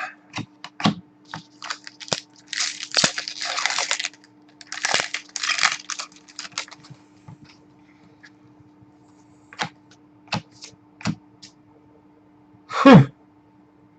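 Trading cards and their packaging being handled: two bouts of rustling and sliding with scattered small clicks and taps, over a steady faint electrical hum.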